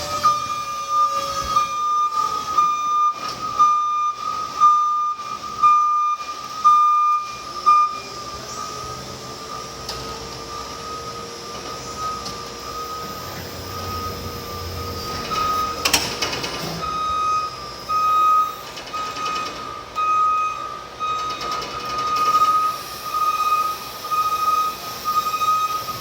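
Reach truck's warning beeper sounding as a string of repeated high beeps, with the whine of its electric motor slowly rising in pitch in the middle and a short sharp clatter about sixteen seconds in.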